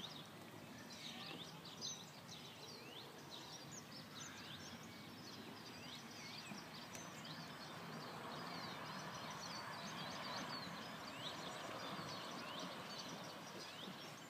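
Several songbirds singing at once, a busy mix of short chirps and trills, over a soft steady hiss that swells a little midway.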